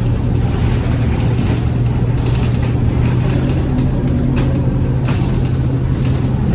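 Scania K230UB single-deck city bus running with a steady low engine hum, with light rattles and clicks over it.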